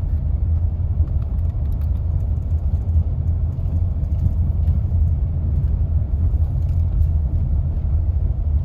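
A car on the move: steady low road and engine rumble.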